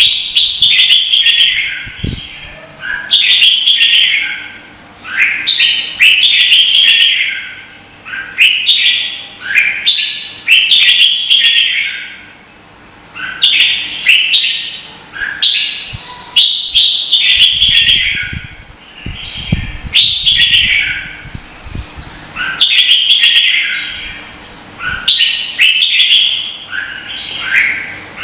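Red-whiskered bulbul song: short, bright warbled phrases delivered one after another, a new phrase every second or two.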